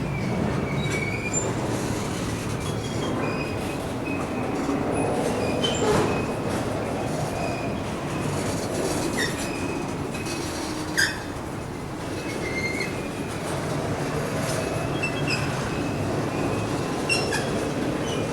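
Freight train cars rolling past with a steady rumble, short high-pitched wheel squeals coming again and again, and a few sharp knocks.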